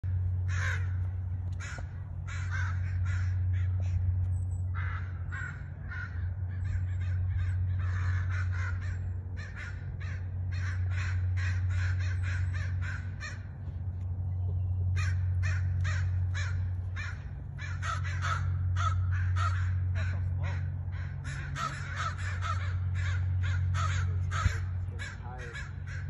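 Birds giving harsh calls in rapid runs, several a second, with two short breaks, over a steady low drone that swells and fades every few seconds.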